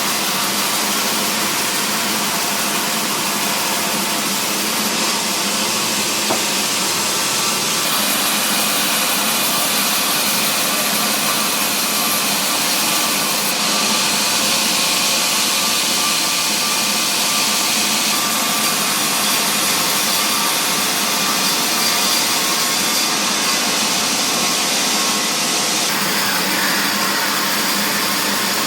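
Sawmill machinery running and sawing mahogany timber: a loud, steady machine noise that shifts in tone a few times.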